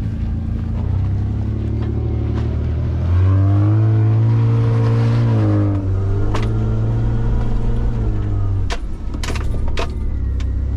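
A four-wheel drive's engine working off-road, the revs climbing about three seconds in, holding, then easing back a few seconds later. Several sharp knocks and rattles near the end.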